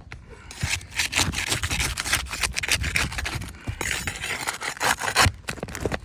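Asphalt three-tab shingles being scraped and pried up, grating in two long stretches with a short break in the middle and a sharp knock near the end. The shingles are brittle and the nails pull right through them.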